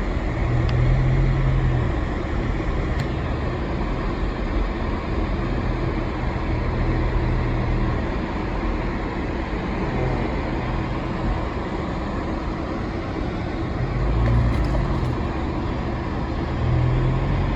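Car driving, heard from inside the cabin: a steady engine and road rumble whose low hum swells and eases a few times.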